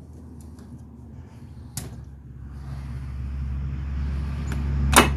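A motor vehicle's engine running and growing steadily louder over the last few seconds, with a sharp click about two seconds in and a louder one near the end.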